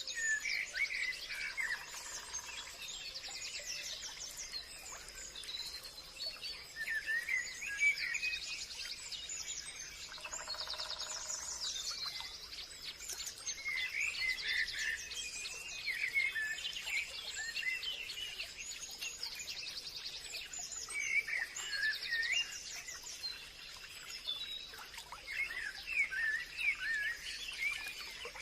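Forest ambience: many birds chirping and calling over one another throughout, over a steady high-pitched whine. A lower, fuller call stands out about ten seconds in.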